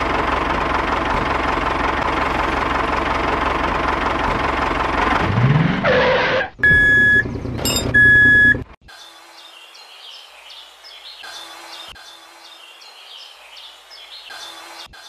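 Tractor engine sound running steadily, rising in pitch briefly about five seconds in and then cutting off. Two loud electronic beeps follow, then faint high chirping.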